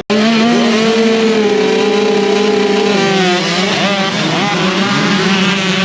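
Several motocross dirt bike engines running loud at high revs, their pitches overlapping; the main note drops a little about three seconds in.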